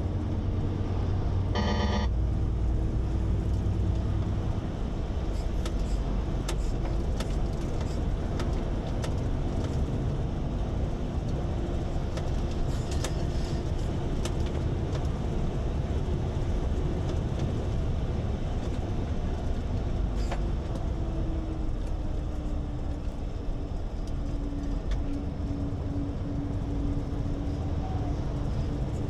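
A truck being driven, with steady engine and road rumble and a held engine note that drops a little about two-thirds of the way through. A short beep sounds about two seconds in.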